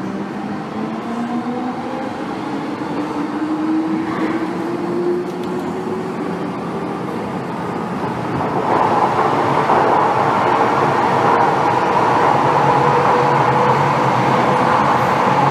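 MTR M-Train electric multiple unit heard from inside the carriage, accelerating away from a station. Its traction motor whine rises in pitch. About halfway through, it gives way to louder, steady running noise of the train at speed on the track.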